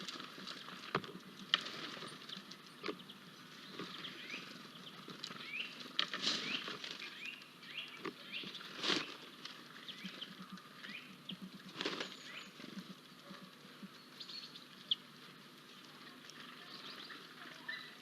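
Small birds chirping and twittering in many short calls, with scattered sharp taps and clicks.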